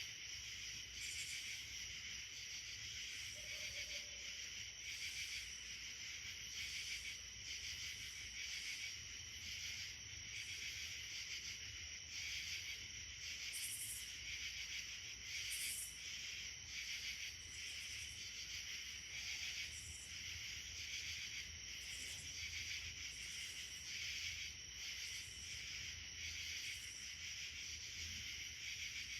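Insect chorus: a steady, high trilling in several overlapping pitches, with a few short, higher chirps standing out.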